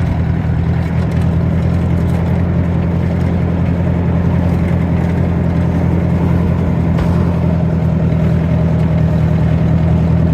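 Ford 620 tractor engine running steadily and smoothly as the forklift drives along the road in third gear.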